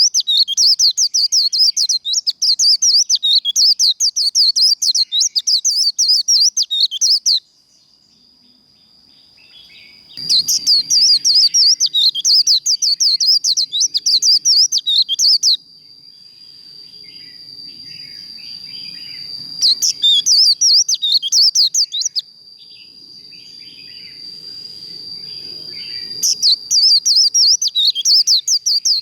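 White-eye (vành khuyên) singing its fast twittering 'líu' song: rapid high chirps in four bouts of several seconds each. A thin steady high whine carries on between the bouts.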